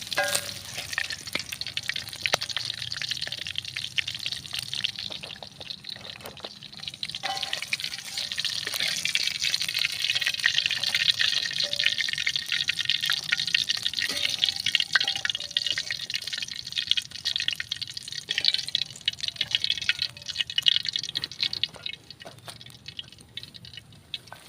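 Small birds frying in hot oil: a dense crackling sizzle with many sharp little pops, strongest through the middle and easing near the end.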